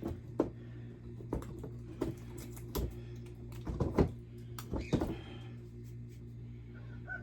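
Scattered clicks and knocks of hand work at an old electrical wall box and its wiring, the loudest about four seconds in, over a steady low hum.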